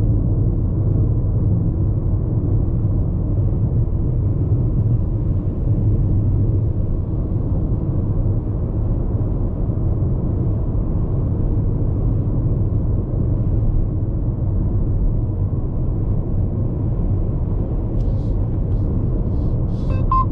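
Steady low road rumble and tyre noise inside the cabin of a Hyundai IONIQ 5 AWD electric car cruising at expressway speed.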